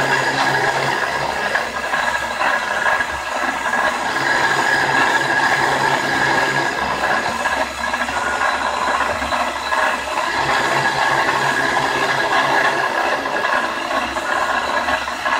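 Grizzly G0704 benchtop milling machine running steadily while its cutter mills a counterbore in metal: a constant whine with a rough, rattly cutting noise.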